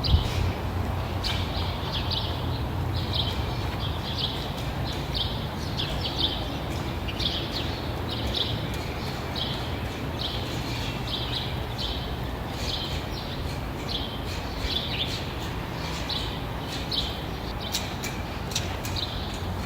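Small birds chirping: many short, high chirps repeating over a steady low rumble.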